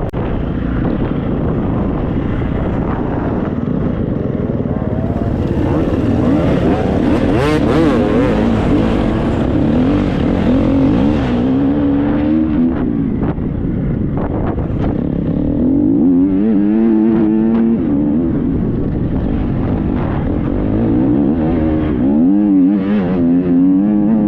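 Triumph 250 motocross bike engine running under load off-road, its pitch rising and falling repeatedly as the throttle is worked on and off.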